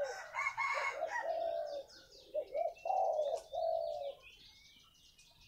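Spotted dove cooing, a run of low coo notes through the first four seconds, with smaller birds chirping higher up in the background.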